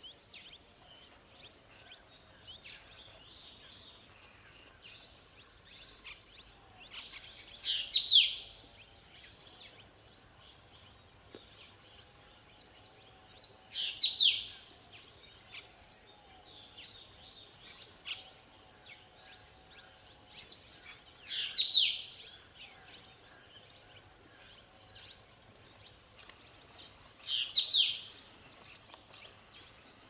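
Wild bird calling: short, sharp high notes about every two seconds, now and then a pair of lower, falling notes, over a steady high hiss.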